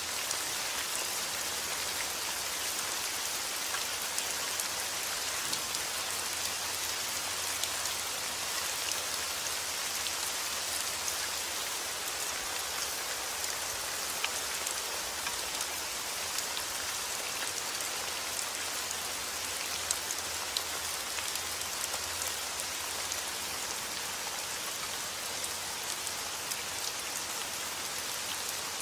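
Heavy rain falling steadily outdoors, a dense even hiss with many small sharp drop ticks scattered through it.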